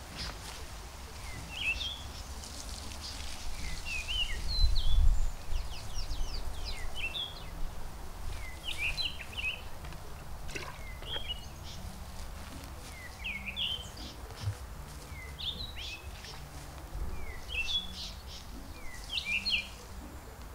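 Birds chirping repeatedly in short, quickly gliding notes, over a low background rumble.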